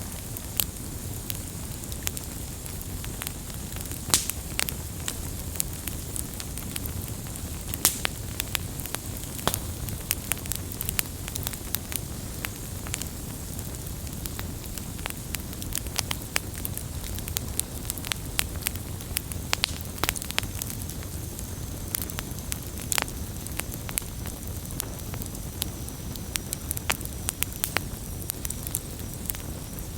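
Wood campfire burning, with a steady low rumble of flames and frequent sharp irregular crackles and pops.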